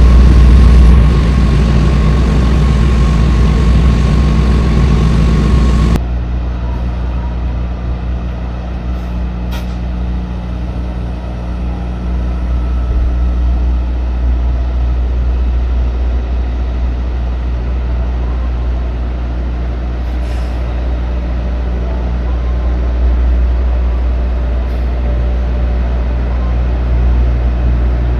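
Idling diesel tractor-trailer: a steady low engine rumble. About six seconds in, the sound abruptly turns duller and quieter, then carries on as a steady hum.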